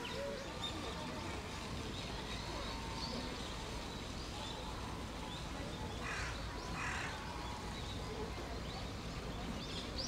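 Two harsh, rasping bird calls, about six and seven seconds in, over faint scattered high chirps and a steady low background rumble.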